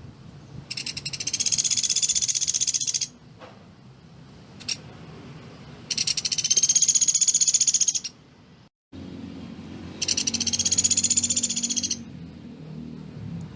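Pelatuk beras woodpecker calling: three high-pitched, rapid rattling trills of about two seconds each, a few seconds apart, each slightly arching in pitch.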